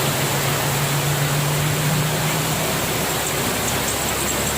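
Storm wind and heavy rain making a loud, steady rushing noise, with a low steady hum underneath.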